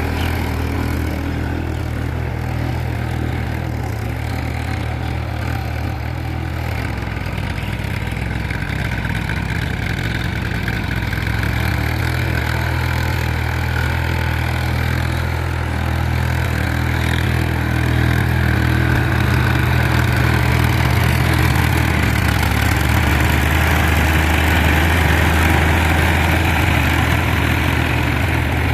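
Powertrac Euro 50 tractor's diesel engine running steadily while working with a cultivator, growing a little louder partway through.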